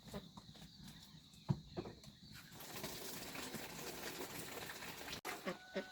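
A few light knocks and one louder thump, then a couple of seconds of water splashing as a face is washed, which stops suddenly.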